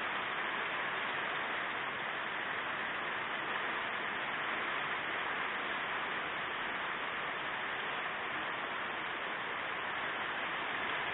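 Heavy rain falling during a thunderstorm, a steady even hiss with no thunder.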